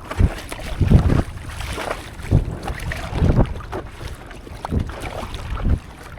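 Water sloshing around a stand-up paddleboard at sea, with wind noise on the microphone, in irregular low surges about once every second or so.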